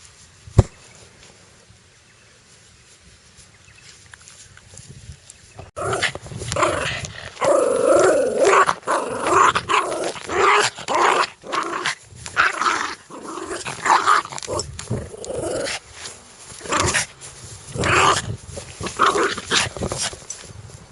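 Aggressive dog growling, with barks mixed in, coming in a run of loud, uneven bursts that start about six seconds in. Before that there is a quiet stretch with a single sharp click.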